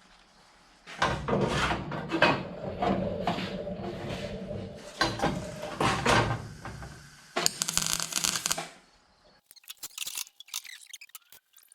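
Sheet-metal work on a car body: irregular knocks and harsh scraping of metal on metal as a cowl panel is hammered and clamped into place, ending in a few light clicks.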